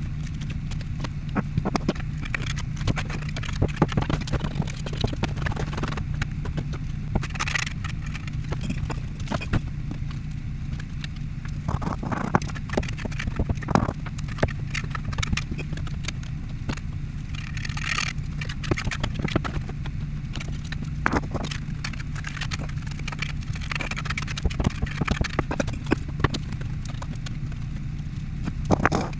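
Irregular knocking and tapping of bricks being set, with occasional scrapes, over a steady low hum.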